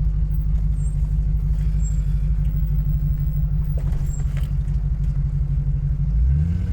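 Land Rover Discovery 2's engine running steadily at low speed, heard from inside the cabin. The engine note rises near the end as the throttle opens.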